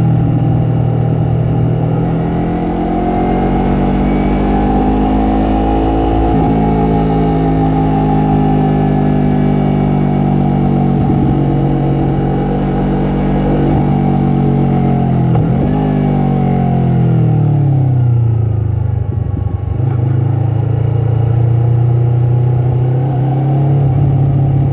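Yamaha MT-03's parallel-twin engine and exhaust running under way. The pitch climbs a couple of seconds in and holds, falls away about two-thirds through, and settles to a steady lower note.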